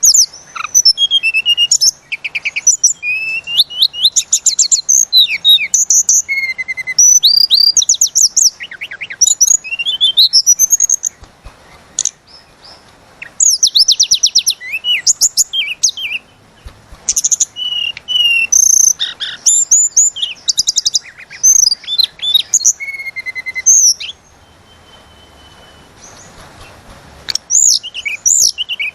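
Tledekan gunung singing in long bursts of rapid chirps, fast trills and sweeping whistled notes, with short pauses between phrases. About three-quarters of the way through there is a brief lull with a faint steady whistle, and then the song resumes near the end.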